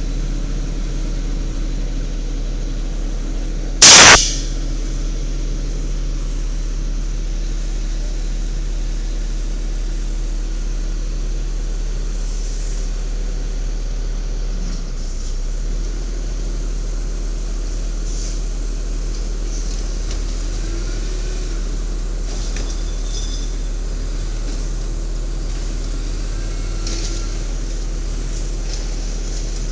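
Garbage truck engine running steadily, with one loud, short air-brake hiss about four seconds in.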